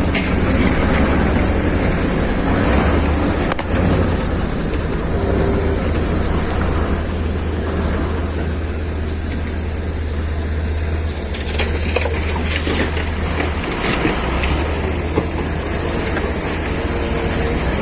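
Heavy diesel vehicle engine running steadily with a deep hum. A sharp knock comes a few seconds in, and a short run of knocks and clatter follows about two-thirds of the way through.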